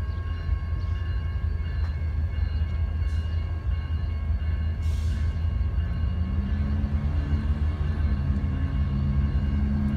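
Autorack freight cars rolling past on the rails: a steady low rumble of wheels on track, with thin steady high ringing tones over it. A lower hum joins about six seconds in.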